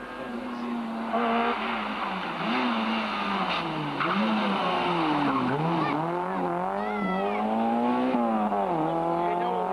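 Rally car engine running hard, its pitch rising and dropping repeatedly as it is driven along the stage, with a short high-pitched squeal about seven seconds in.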